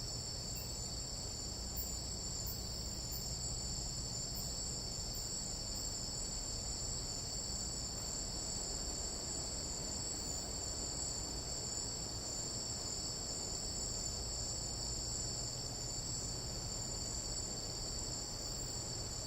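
A chorus of night insects trilling steadily, several unbroken high-pitched bands layered on one another over a faint low rumble.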